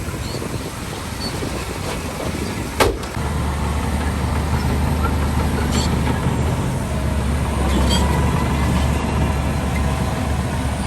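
Heavy diesel machinery running steadily, with one sharp metallic clank about three seconds in, after which the engine's low drone gets louder, as under load.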